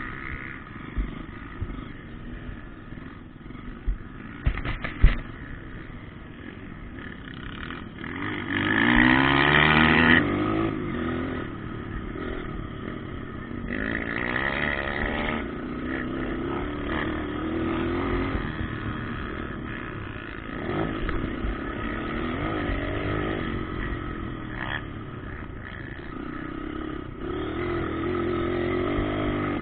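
Motocross dirt bikes revving and shifting as they ride the track, engine pitch rising and falling; one bike passes loudest about eight seconds in and another about fourteen seconds in. A few sharp knocks are heard around four to five seconds in.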